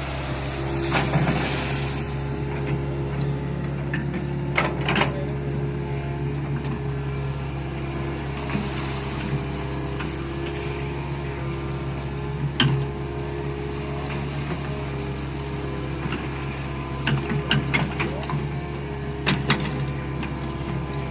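Hitachi hydraulic excavator's diesel engine running steadily, with a scattering of sharp knocks while it works.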